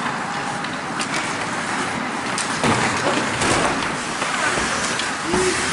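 Steady outdoor rushing noise, with faint distant shouting voices near the end.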